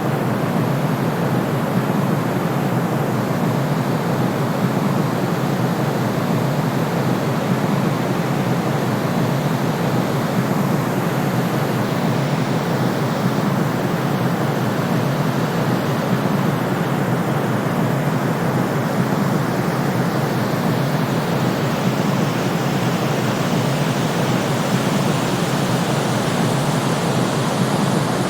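Steady, deep rushing hiss of a baby-soothing white-noise track, weighted toward the lower pitches, with no change throughout.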